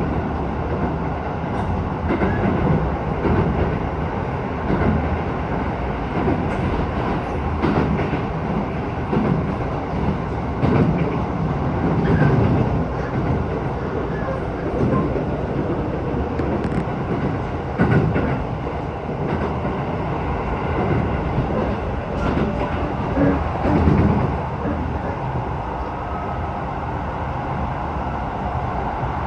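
Keisei 3000 series electric train running at speed, heard from inside the car: a steady rumble with wheels clacking over rail joints at irregular intervals.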